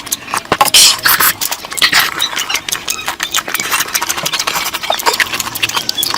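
Close-miked eating sounds: wet chewing, lip smacking and slurping of a mouthful of curry, a dense run of small clicks with short louder wet bursts.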